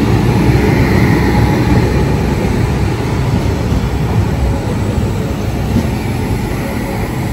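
Konkan Kanya Express with its LHB coaches running at speed: a steady, loud running noise of the wheels on the rails and the moving coach.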